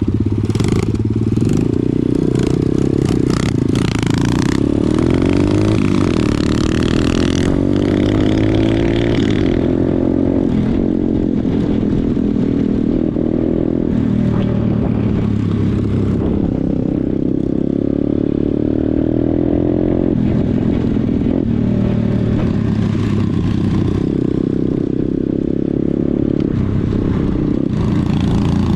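Pit bike engine running under way, its pitch rising and falling as the throttle is opened and closed. There is some clattering in the first five seconds.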